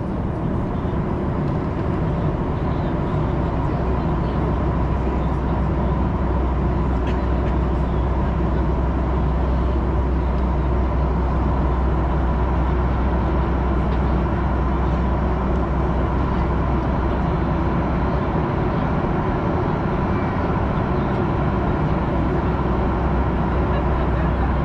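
Steady drone of jet engines and rushing air heard inside an airliner's cabin in flight, unchanging throughout.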